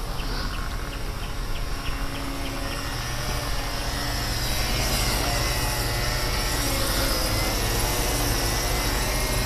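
The 5.3-litre V8 of a 2004 Chevy Suburban idling steadily. Its sound grows a little louder and fuller about four to five seconds in, with a faint high whine from then on.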